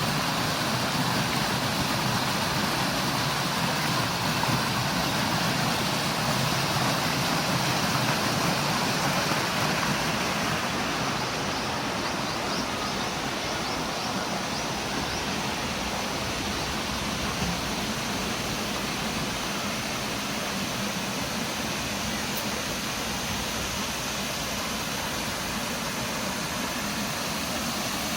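Steady rushing noise of flowing water, a little softer in the second half.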